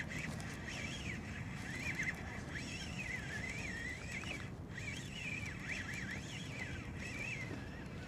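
Spinning reel being cranked to bring in a hooked fish, its gear whine rising and falling with each turn of the handle, over a low steady background hiss.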